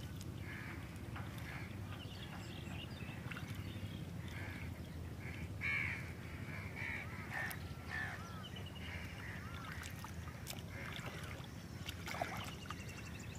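Birds calling again and again in short calls, over a steady low rumble; the loudest call comes about halfway through.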